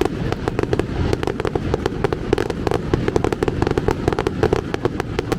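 Fireworks display: a rapid, continuous barrage of crackling bangs, many per second, over a low rumble.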